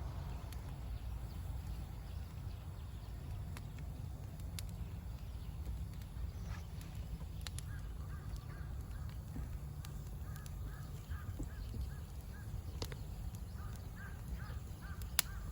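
A bird calling in short runs of quickly repeated notes, several runs in a row from about halfway through, over a steady low outdoor rumble with a few sharp clicks.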